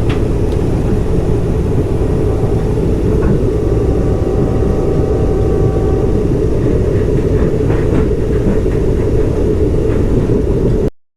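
Amtrak San Joaquins passenger train running, a steady low rumble heard from inside the passenger car as it pulls into a station. A faint high whine comes in for a few seconds in the middle. The sound cuts off suddenly near the end.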